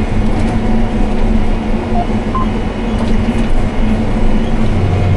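Hay-cutting machine with its header running, a steady, loud mechanical drone while it cuts tall grass. Two short, faint beeps come about two seconds in.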